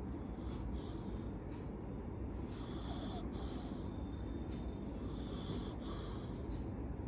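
A Labrador dog snoring, with snorting, wheezy breaths.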